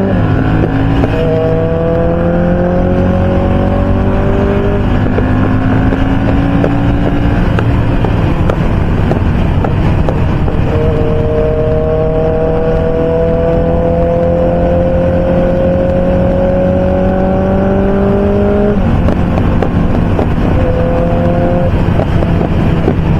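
Ducati motorcycle engine pulling at highway speed under steady wind noise. Its note climbs slowly, then drops with an upshift about a second in, about ten seconds in and again near the end.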